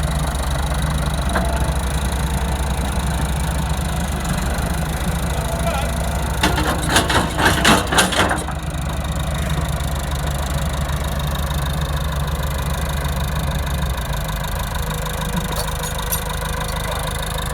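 A heavy machine's engine running steadily, with a short run of sharp cracks and knocks about a third of the way in. Near the end the engine's low note drops slightly.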